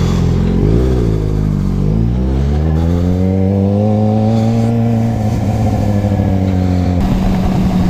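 Motorcycle engine pulling away and accelerating: its note dips briefly, then climbs steadily for a few seconds, eases a little, and changes abruptly to a steady lower note near the end.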